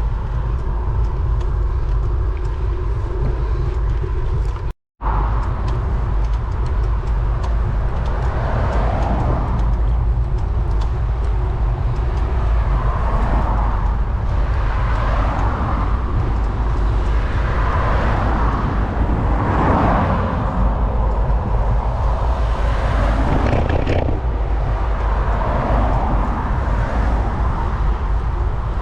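Steady wind rumble on the microphone of a moving bicycle, with road traffic passing, several vehicles swelling and fading one after another in the second half. The sound cuts out completely for a moment about five seconds in.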